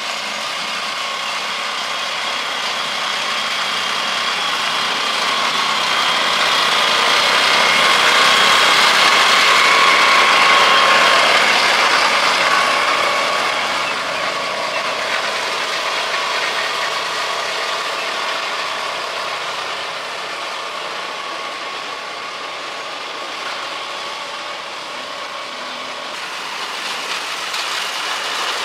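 Engine of a restored Honda three-wheeler running steadily with a mechanical rattle, growing louder over about ten seconds and then easing off.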